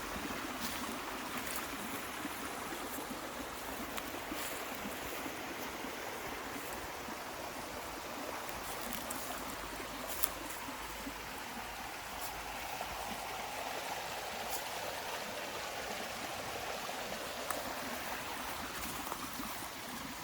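Steady rushing of flowing water, like a stream, with a few short clicks, the sharpest about halfway through.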